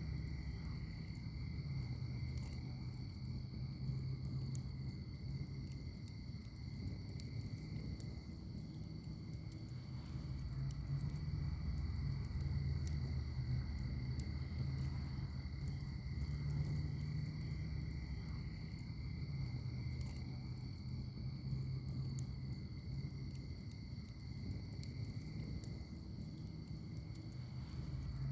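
Wood fire crackling in a fire pit with scattered small pops, over a steady high-pitched insect chorus and a continuous low rumble.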